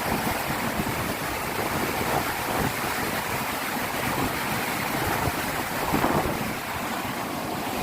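Fast floodwater rushing steadily through an open barrage gate, with wind buffeting the microphone.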